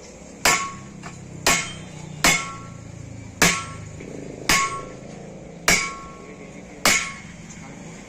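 Hammer striking metal, seven blows roughly a second apart, each with a short metallic ring.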